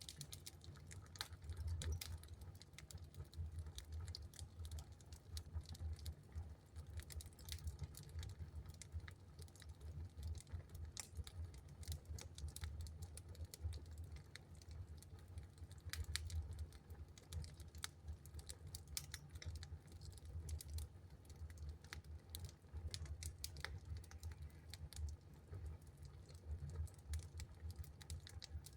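Wood fire crackling in a fireplace: faint, irregular sharp pops and ticks over a low steady hum.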